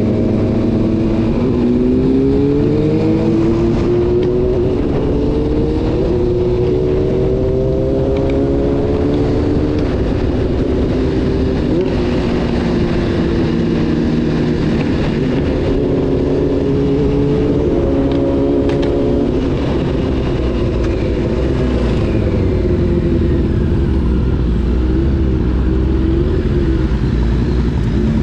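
Honda CBR600 F4's inline-four engine running under a rider, its pitch climbing several times in the first ten seconds and again a little past halfway, then settling lower and steadier, with wind and road noise.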